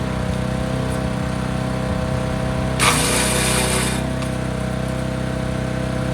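Forest Master FM8DD wood chipper's engine running steadily. About three seconds in, a rasping burst of about a second is a branch going through the chipper.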